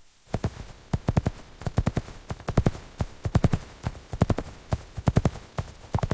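Horse hooves clip-clopping at a steady gait: sharp strikes in quick groups of three or four, repeating a little more often than once a second, starting a moment in.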